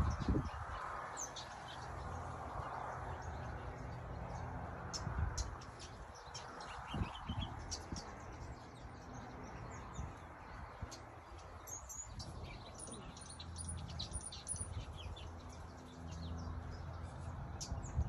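Small birds chirping and twittering in a tree, many short high calls scattered throughout, over low background noise.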